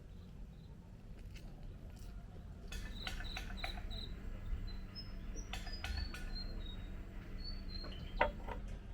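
Small birds chirping in short, high notes, a quick run of four about three seconds in and then scattered single notes. A few sharp clicks come through, the loudest about eight seconds in, over a steady low hum.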